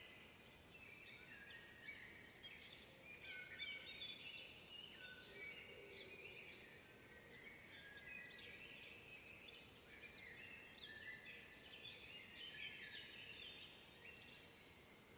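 Several songbirds singing in woodland at once, faint, with overlapping chirps and trills throughout. A thin, very high falling note repeats about every second and a half.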